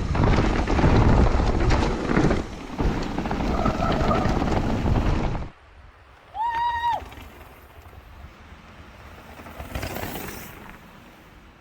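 Wind buffeting the action-camera microphone during a ride, a loud even roar that cuts off abruptly about halfway through. After it comes a quieter hiss, with one short arched whistle-like call a second later and a soft gust near the end.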